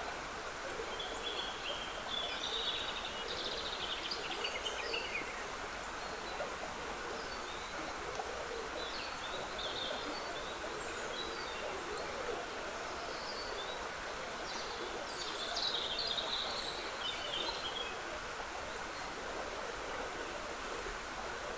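Trickling stream of running water, a steady rush, with woodland birds singing short high phrases over it in three spells: early on, in the middle, and loudest about three-quarters of the way through.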